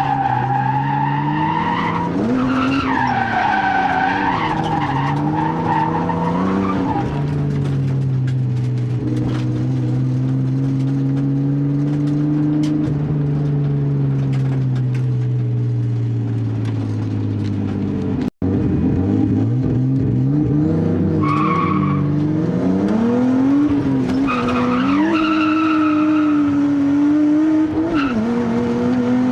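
Nissan R32 Skyline's RB20DET turbocharged straight-six revving up and down while drifting, with the tyres squealing through the slides. The revs are held for about ten seconds in the middle, sagging slowly, and the sound cuts out for an instant about two-thirds through.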